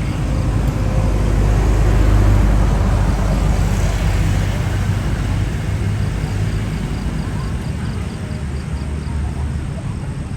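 Jet airliner engines running as it taxis, a loud steady rumble and rush that swells about two seconds in and then slowly eases off.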